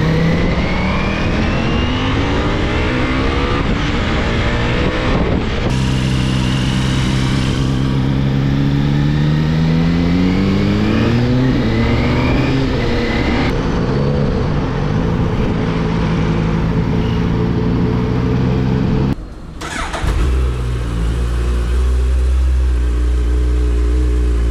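Ducati Multistrada motorcycle engine accelerating through the gears, the revs rising and falling back at each upshift several times over. After a short break near the end, a motorcycle engine idles steadily.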